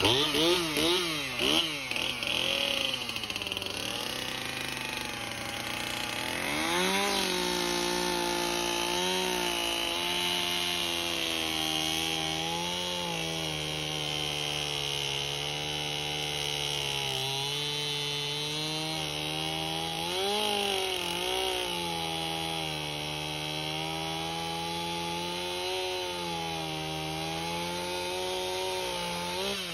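Tractor engine running at raised revs while its front loader lifts a heavy header beam. The pitch swings up and down quickly at first, then holds fairly steady with small dips and rises as the load changes.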